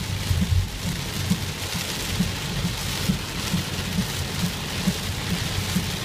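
Heavy rain hitting a moving car, heard from inside the cabin, over a steady low rumble of tyres on a wet, flooded road.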